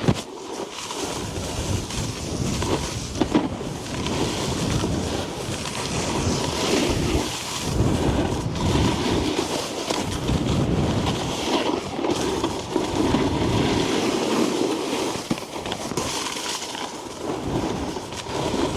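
Wind buffeting the microphone while a snowboard slides and scrapes over packed snow, a rushing noise that swells and eases as the rider carves, with a couple of sharp knocks in the first few seconds.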